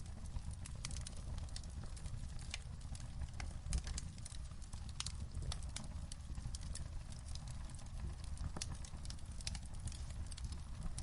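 Wood fire crackling in a fireplace: irregular sharp pops and snaps over a low steady rumble, with one louder pop about four seconds in.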